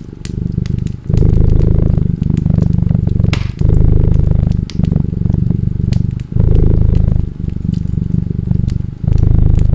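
Cat purring close up, a low rumble that swells and eases with each breath about every second, over a wood fire crackling with scattered sharp pops.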